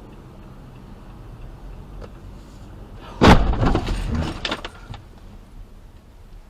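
Steady vehicle engine and road hum, then about three seconds in a loud sudden crash of a car collision, followed by a second or two of crunching and clattering debris that dies away.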